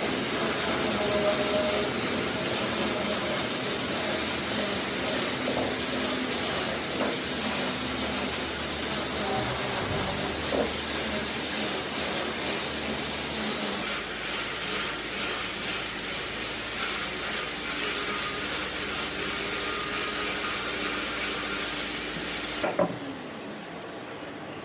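Steady, loud hissing noise from workshop equipment, which cuts off suddenly with a click near the end.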